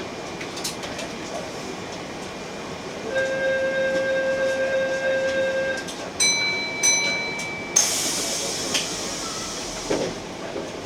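Keihan train standing at a station platform as its doors are about to close: a steady door-closing buzzer tone for nearly three seconds, then higher ringing chime tones, then a sharp hiss of compressed air about eight seconds in.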